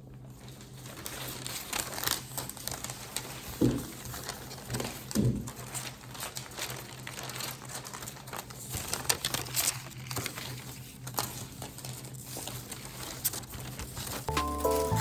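Crinkling and rustling of something being handled, with many light clicks and taps and two louder knocks a few seconds in, over a low steady hum.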